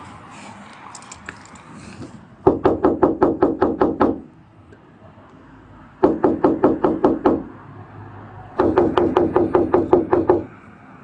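Rapid knocking on a door in three bursts of about seven knocks a second, each knock ringing briefly.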